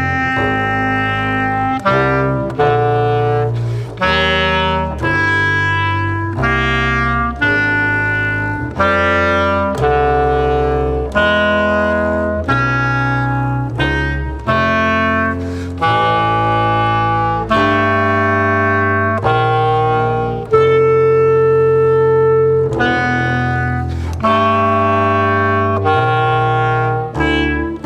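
Clarinet and double bass playing a chain of held notes together, a new note starting sharply and tapering off about once a second, over a low bass line. About two-thirds of the way through one note is held longer.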